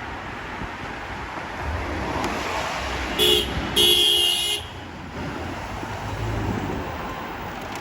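A vehicle horn sounds twice, a short toot and then a longer one half a second later, over steady traffic and wind noise.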